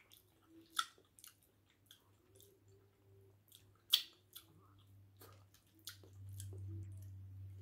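Close-up chewing of soft potato-flour fufu with egusi soup, with a scatter of short wet mouth clicks; the sharpest come about a second in and again about four seconds in. A low steady hum comes up from about six seconds.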